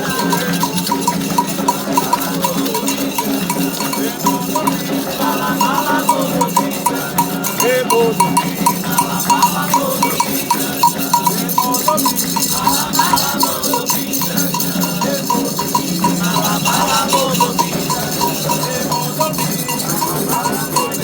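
Candomblé ritual music: hand drums and an agogô-type bell striking a steady repeated pattern, with voices singing at times.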